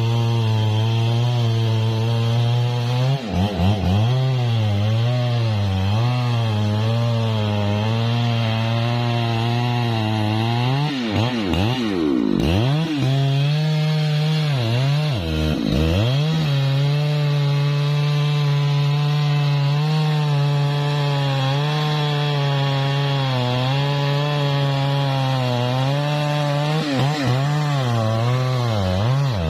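Husqvarna 3120 XP large two-stroke chainsaw running steadily while cutting wood. Its engine pitch dips and climbs back several times as the chain bogs in the cut, most deeply about a third of the way through.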